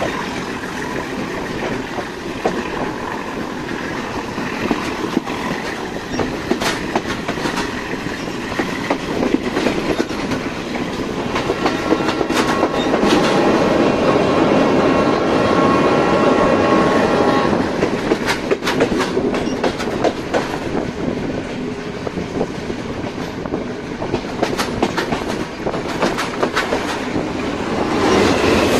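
A passenger train running at speed, heard from its open doorway: steady clickety-clack of wheels over rail joints. It grows louder for several seconds about halfway through as the train crosses a steel truss bridge, with a long steady tone held over it. Near the end, an oncoming diesel locomotive passes close on the adjacent track.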